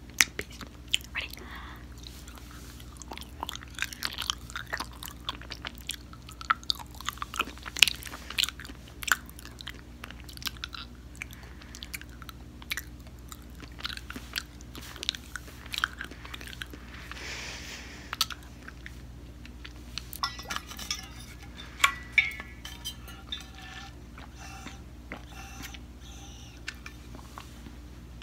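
A person chewing and crunching food close to the microphone, with many sharp, irregular crunches and clicks over a low steady hum.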